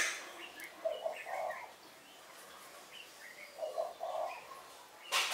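Birds calling: a low two-part call twice, about a second in and again about four seconds in, with short higher chirps between, and a sharp click at the very start.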